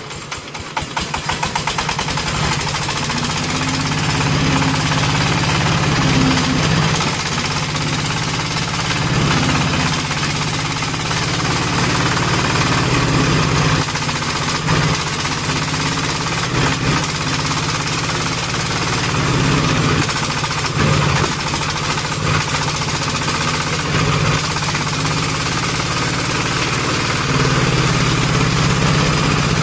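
Single-cylinder horizontal diesel engine of a công nông farm truck running with a knocking chug. It gets louder over the first couple of seconds, then holds steady.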